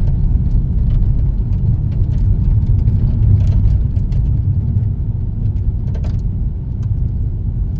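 Car driving along a road, heard from inside the cabin: a steady low rumble of engine and tyre noise, with faint scattered ticks.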